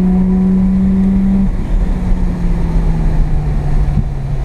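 Mazda RX-7 FB's carbureted 12A rotary engine, heard from inside the cabin, running at steady revs under throttle; about a second and a half in the throttle comes off and the revs fall slowly as the car coasts.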